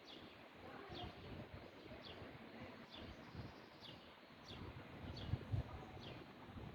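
A bird repeating a short, high, falling chirp about once a second, over an uneven low rumble.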